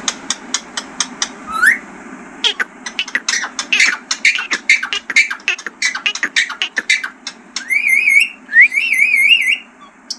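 Rose-ringed (ring-necked) parakeet vocalizing: a quick run of clicks and short chirps, then, a bit past halfway, a warbling whistle that wavers up and down in pitch for about two seconds.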